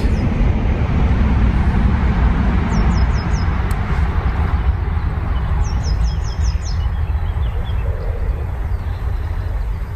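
A steady low rumble of noise, with a bird chirping in two quick runs of short, high, falling notes, about three seconds in and again around six seconds in.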